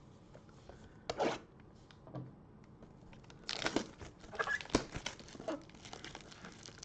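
Plastic wrapper of a trading-card pack crinkling and tearing as it is opened by hand: a brief rustle about a second in, then steady crinkling from about halfway.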